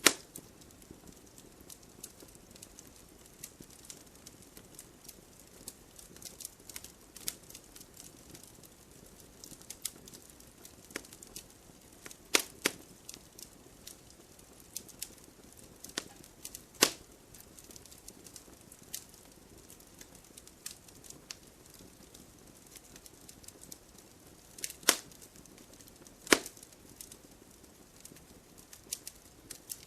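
Wood fire crackling: scattered small snaps over a low steady hiss, with a few louder pops, the loudest right at the start and about 12, 17, 25 and 26 seconds in.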